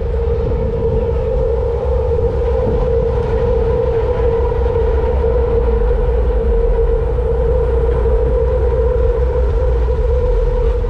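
A train running on an elevated track: a steady drone with a fainter higher tone over a low rumble, unchanging throughout.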